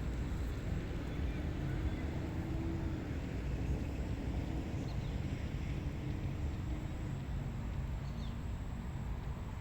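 Steady wind over an open rice paddy, mostly a low rumble, with a couple of faint high chirps.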